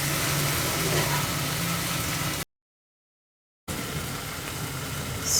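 Chicken spleen fry sizzling in oil in a kadai, a steady hiss over a low steady hum. The sound cuts out completely for about a second in the middle, then carries on as before.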